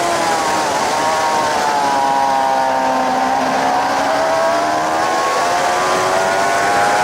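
Suzuki GSX-R 750's inline-four engine heard from on board at speed, over wind rush: the revs fall over the first three seconds or so, then climb steadily again to the end.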